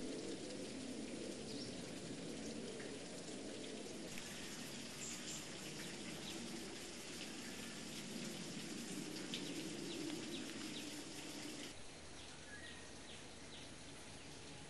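Quiet outdoor ambience with a steady hiss and scattered short bird chirps; the hiss drops a little about twelve seconds in.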